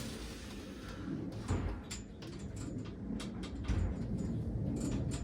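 Handling noise of the stopped box fan being checked: scattered clicks, taps and knocks over a low rumble.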